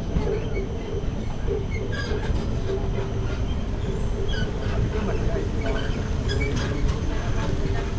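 Steady low rumble and drone of a moving tourist tram heard from aboard, with a constant hum, and short high chirps scattered through it.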